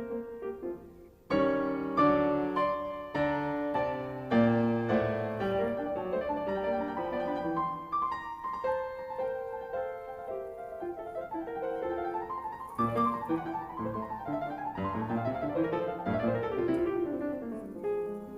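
Background piano music with a series of struck chords and melody notes; it drops away briefly just after the start and comes back strongly about a second in.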